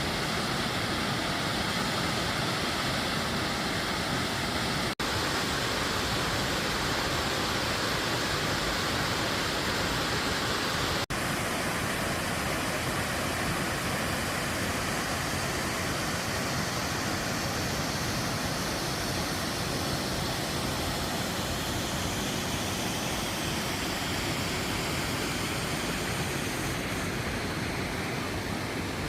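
Waterfall's rushing water, a steady dense roar with no let-up, broken by two very brief dropouts.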